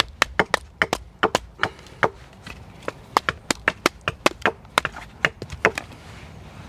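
Quick, sharp chops of a blade into a piece of wood being roughed out for carving, about three or four a second, thinning out near the end.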